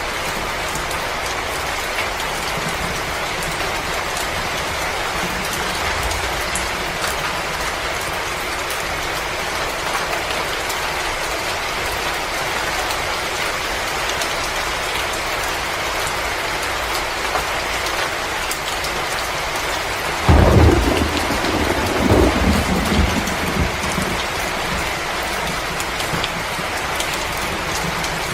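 Wood fire crackling in a fireplace: a steady hiss with many small pops, and a louder low rumble starting about twenty seconds in that lasts a few seconds.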